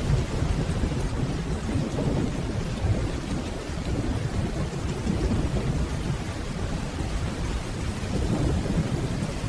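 Steady rainfall over a continuous low rumble of distant rolling thunder.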